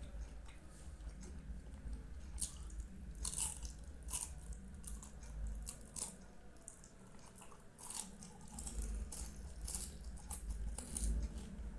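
Close-up wet chewing and smacking of a person eating soft Indian sweets, a run of irregular short mouth clicks.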